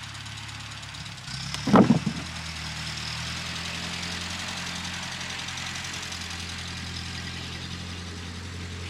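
A steady motor hum, with one loud knock or thump a little under two seconds in.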